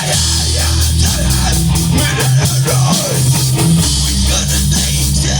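Rock band playing live: distorted electric guitar, bass and a drum kit with steady cymbals, between sung lines.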